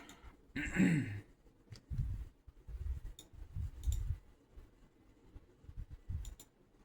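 A short wordless vocal sound, like a sigh, just before a second in. Then soft low thumps and a few faint, sharp clicks from a computer mouse as the forecast pages are browsed.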